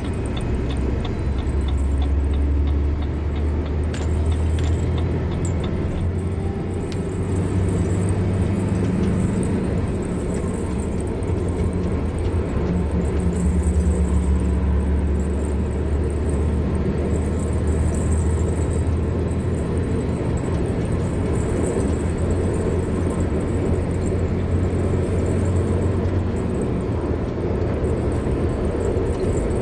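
A car driving along a road: a steady low rumble of engine and tyres that swells and eases gently. Faint regular ticks, about two or three a second, run through the first few seconds.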